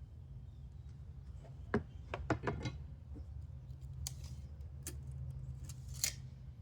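Woodworking handling sounds: a quick cluster of sharp clicks and knocks about two seconds in, then three short scrapes, over a steady low hum.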